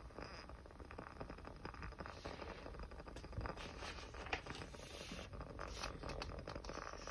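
Small fire crackling with dense, irregular pops and ticks and a few sharper snaps.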